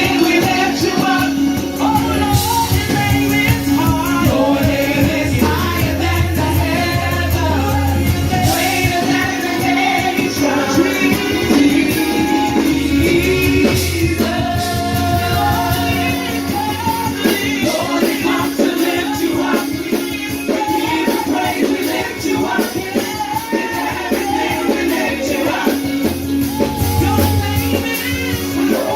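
Church worship team performing a song live: singers over a band, with a steady held low note underneath and occasional sharp strikes.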